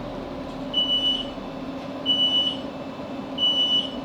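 Three high electronic beeps on board a Class 458 electric train, each about half a second long and a little over a second apart, over the train's steady low hum as it stops at a station, the kind of signal the doors give when they are released.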